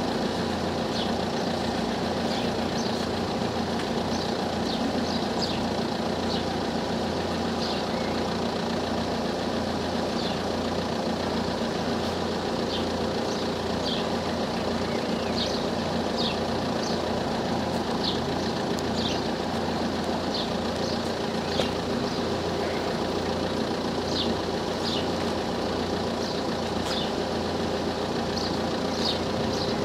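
Car engines idling steadily at the lowered level-crossing barriers, with short high bird chirps scattered over the hum.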